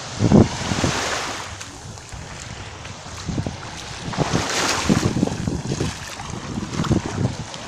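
Small Black Sea waves washing onto the beach, the surf swelling about a second in and again around four and a half seconds in, with wind buffeting the microphone.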